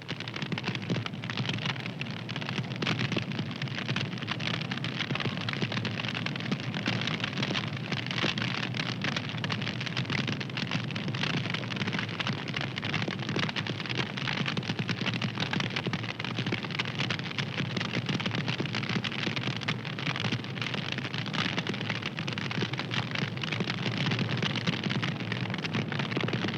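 Fire crackling steadily: a dense run of small pops and snaps over a constant hiss.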